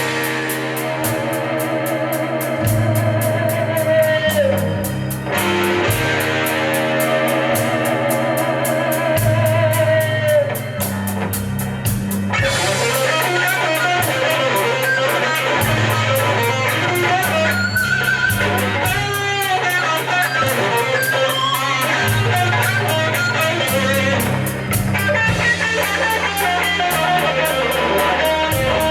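Live blues band playing an instrumental break: an electric guitar lead with bent, gliding notes over a steady bass line and drum kit.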